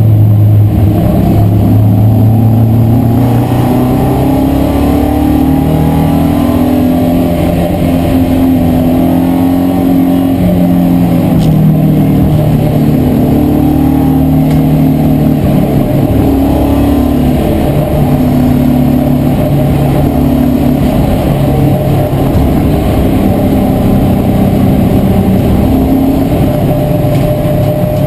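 BMW E36 318iS race car's four-cylinder engine running hard, heard from inside the cabin, its pitch climbing and falling back again and again.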